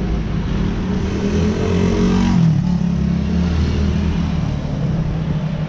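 A road vehicle's engine accelerating past over a steady traffic hum, its pitch rising and loudest about two and a half seconds in.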